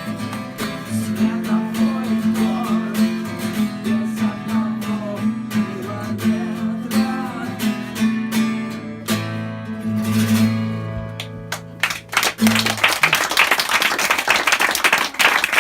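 Acoustic guitar strumming the closing chords of the song, ringing out on a held final chord; about 13 seconds in the music stops and a small audience applauds.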